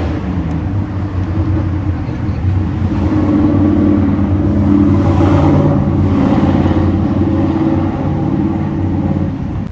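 Car engine running steadily at idle, growing somewhat louder through the middle and then easing off.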